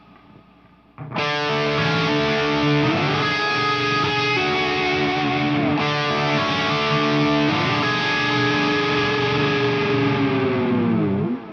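Electric guitar played through a Line 6 Helix crunch preset with distortion and effects: a chord struck about a second in and left ringing, struck again about halfway, then the notes bend down in pitch just before the sound cuts off.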